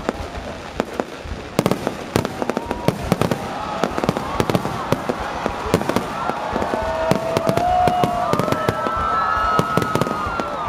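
Aerial fireworks going off in a rapid, irregular barrage of bangs and crackles, many reports a second.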